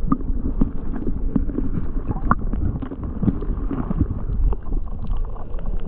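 Muffled water sloshing and splashing with many small knocks and a low rumble, as a spotted bass is let back into the lake.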